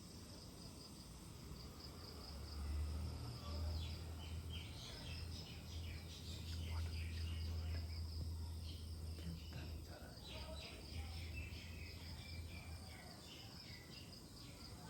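Small bird chirping in many short, high notes over a steady insect trill, with a low rumble underneath.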